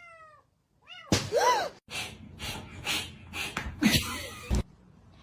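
A cat gives two short, arching chirps, then a louder call, followed by a run of short breathy puffs about half a second apart.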